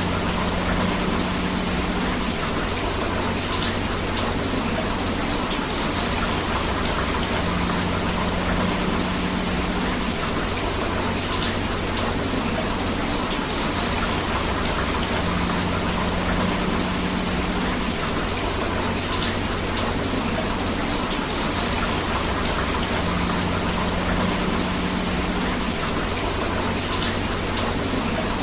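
Steady rain mixed with rushing river water, a continuous even hiss. A faint low hum recurs about every seven to eight seconds, as in a short repeating loop.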